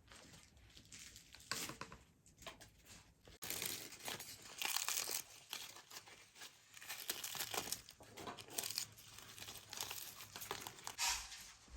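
Irregular crackling and crinkling, a dense run of small snaps and rustles that gets louder about three seconds in.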